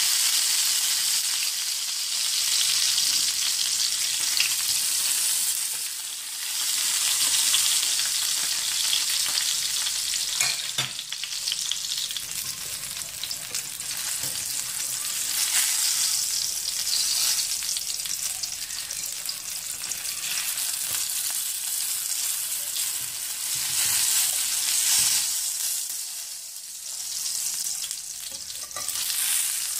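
Halved tomatoes sizzling steadily in hot oil in a frying pan, the sizzle swelling and easing as they are turned. A brief clack of metal tongs against the pan about eleven seconds in.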